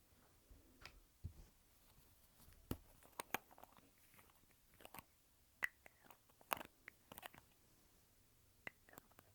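Lipstick tube being handled, its case and cap giving a dozen or so small sharp clicks and taps at irregular spacing.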